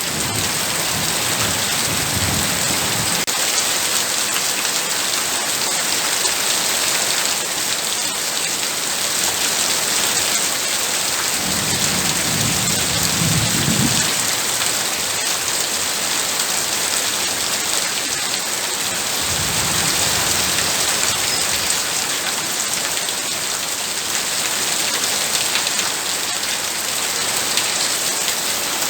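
Heavy rain pouring steadily, with low rumbles of thunder rolling in three times: at the start, about twelve seconds in and about twenty seconds in.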